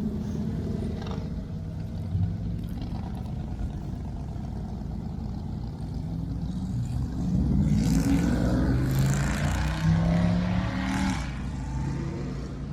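Car engine revved hard, rising to its loudest about seven to eleven seconds in with a loud hiss over the engine note, then easing back.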